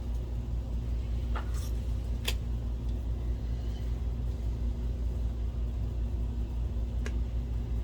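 A steady low hum runs throughout, with a few light clicks from small parts and tools being handled on the opened projector.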